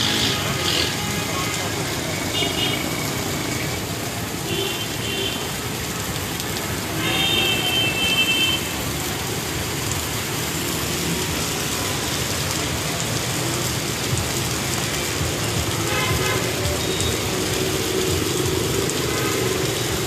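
Steady heavy monsoon rain mixed with street traffic noise, with a few short high-pitched tones about two, five, seven and sixteen seconds in.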